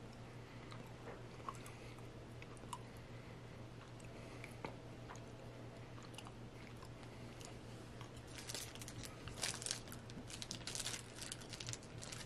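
Faint chewing of a mouthful of Dinky Decker chocolate bar: soft wet mouth clicks over a low steady hum. From about eight seconds in, a spell of crackly rustling as a candy wrapper is handled.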